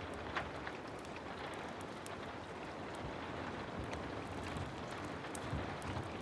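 Heavy rain falling steadily: a dense, even hiss with scattered sharp ticks of drops.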